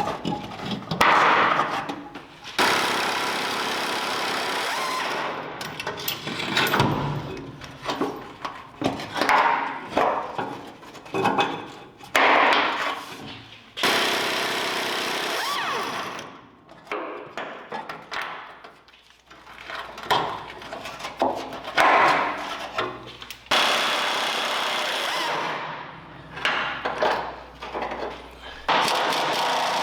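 Pneumatic impact wrench hammering on rusted truck-bed bolts in several bursts of two to three seconds, with shorter clanks of metal and tools between them.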